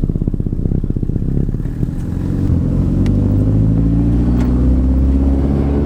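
Turbocharged car engine under way, its exhaust pulsing evenly, then accelerating with a steady rise in pitch from about two seconds in. A backed-out bolt at the turbo had caused an exhaust leak; with the bolt retightened, the leak's noise is gone and the engine sounds better.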